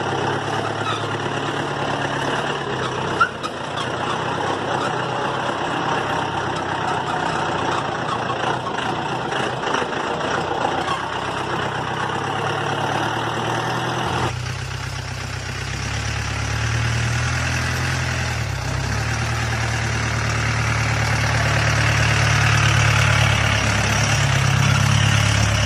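Mahindra jeep's engine running steadily, with rumble and rattle from the vehicle, and one sharp knock about three seconds in. About halfway through, the low engine hum comes to the fore.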